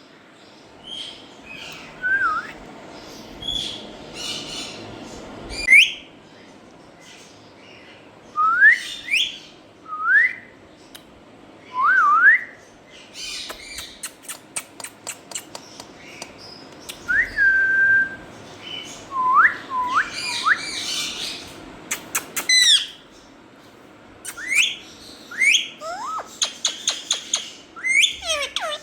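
Ringneck parakeet whistling: many short up-slurred whistles, one held briefly, mixed with rapid clicking and harsher squawk-like calls.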